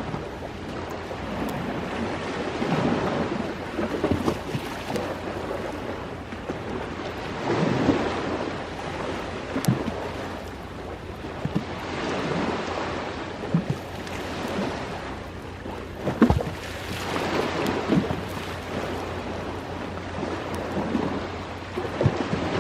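Waves surging in and washing back, swelling every four to five seconds, with a wood fire crackling and giving a few sharp pops.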